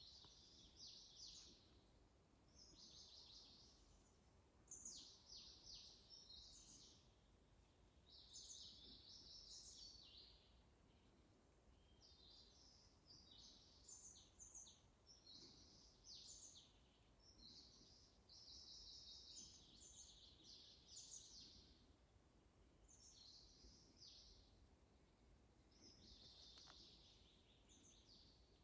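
Songbirds singing faintly: short, high-pitched phrases of quick notes, repeated every second or two, over a faint low background hum.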